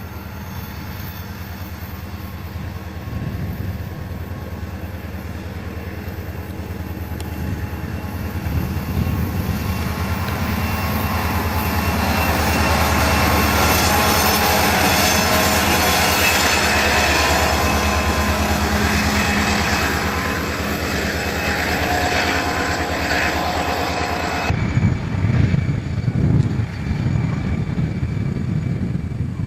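Diesel-electric locomotives running past with a throbbing engine rumble and wheel noise, building to loudest about halfway through and then easing. An abrupt change about three-quarters of the way in gives way to a rougher, gusty rumble.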